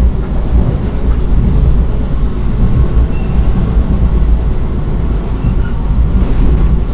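NJ Transit Atlantic City Line passenger train running at speed, heard from inside the coach: a loud, steady low rumble of the car and its wheels on the rails.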